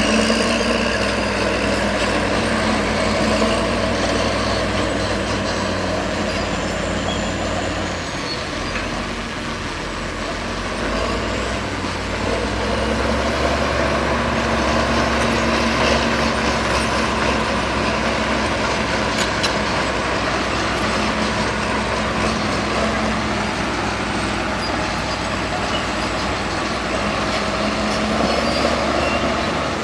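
Heavy earthmoving machinery with its engine running steadily under work. The sound eases off around eight seconds in and builds back up about twelve seconds in.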